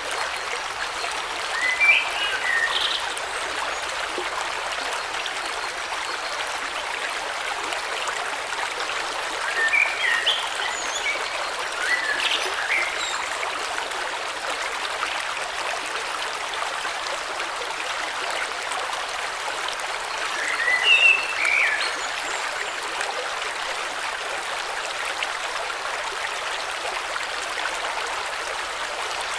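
River water flowing with a steady rushing babble. Short chirping bird calls break in over it three times: about two seconds in, around ten to thirteen seconds, and around twenty-one seconds.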